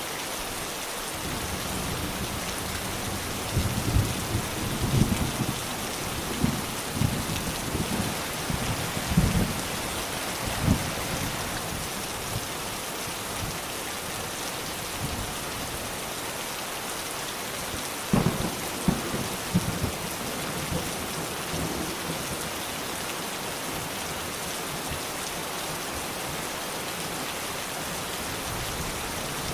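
Steady, even rain falling, with thunder rumbling in two spells: a run of low rolls a few seconds in and a shorter one past the middle.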